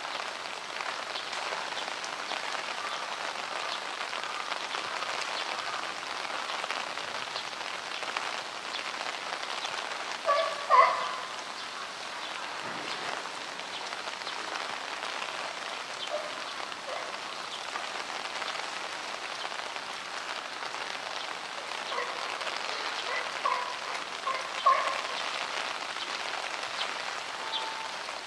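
Heavy downpour: steady rain falling on surfaces as a dense patter of drops. A few brief, louder sounds break through about ten seconds in and again near the end.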